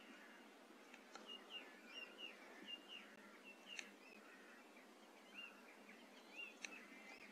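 Near silence outdoors with faint birdsong: a small bird repeating short arched chirps. A few faint ticks come and go.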